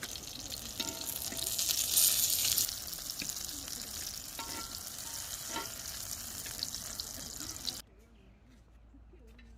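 Food frying in oil, a steady sizzle that swells for about a second near the start, with a few light clicks and scrapes. It cuts off abruptly near the end.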